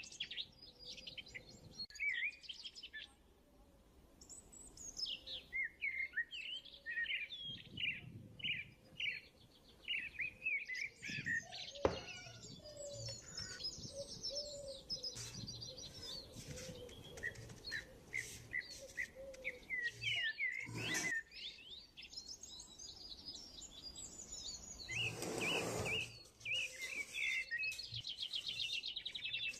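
Birds chirping and trilling continuously, with many short chirps and rapid trills. A single sharp tap comes about twelve seconds in, and a short rustling burst comes near the end.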